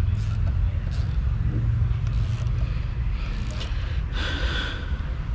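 Steady low mechanical hum, with a short breathy burst about four seconds in.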